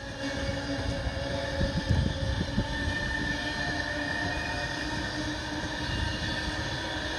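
Class 390 Pendolino electric train running through at speed without stopping: a steady rush of wheel-on-rail and running noise, with a few low knocks in the first few seconds.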